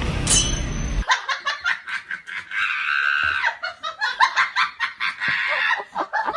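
A person laughing hard in quick, high-pitched repeated bursts, starting abruptly about a second in after a stretch of music cuts off.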